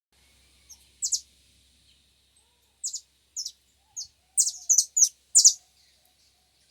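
A small songbird chirping: short, sharp, high-pitched chirps, spaced out at first, then coming in a quicker run about four to five and a half seconds in.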